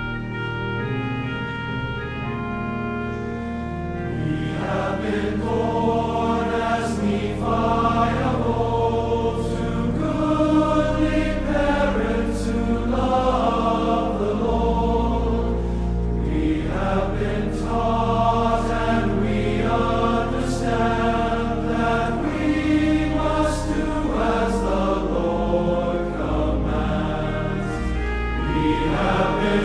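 Choir singing with organ accompaniment: sustained organ chords alone at first, the voices coming in about four seconds in and continuing.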